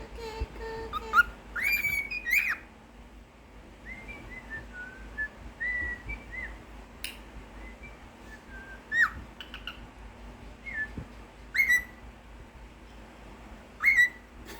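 Cockatiel whistling a song: a run of short whistled notes that glide up and down, broken by a few sharp chirps.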